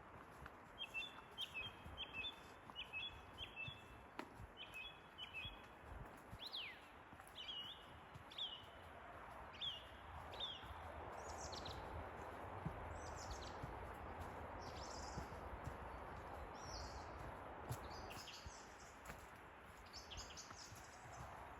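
Forest birds calling: quick, repeated two-note chirps through the first half, then scattered higher chirps. Underneath is a soft rushing background that grows louder about halfway through.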